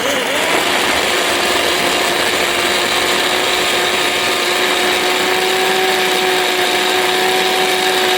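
Electric blender motor running at full speed, a steady whine over a whirring rush. It has just been switched on again and settles to speed within the first half second.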